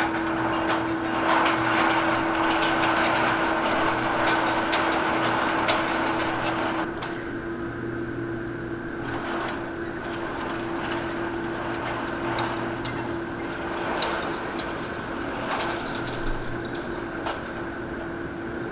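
A steady hum with scattered knocks and shuffling noise; the shuffling is busier for about the first seven seconds, then thins out.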